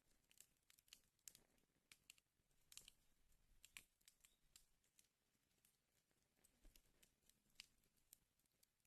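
Wood fire burning in a fireplace, crackling faintly with irregular sharp pops and snaps over a soft hiss.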